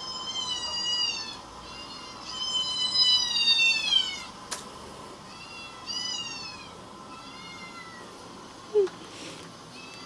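High-pitched kitten mews, four in all, each falling in pitch at the end; the second is the longest and loudest. A short, sharp thud comes near the end.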